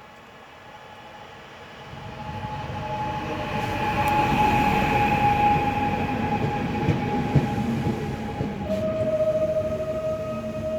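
Electric train approaching and running past, growing louder from about two seconds in, with rail rumble and clatter under a steady high whine from its traction equipment. The whine changes to a different pitch near the end.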